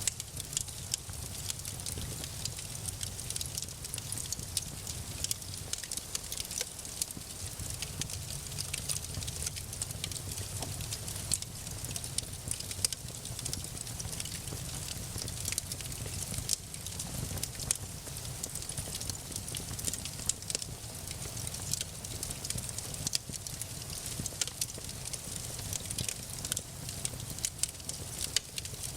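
Wood fire crackling, with frequent small sharp pops and snaps over a low steady rumble.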